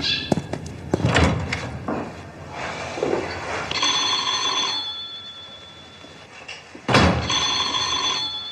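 Telephone bell ringing twice, each ring about a second long, about three and a half seconds apart. A loud thump comes just before the second ring, and there are scattered knocks and clicks near the start.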